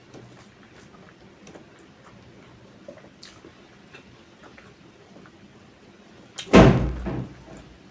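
Faint chewing and small mouth clicks, then a single loud thump about six and a half seconds in that dies away in under a second.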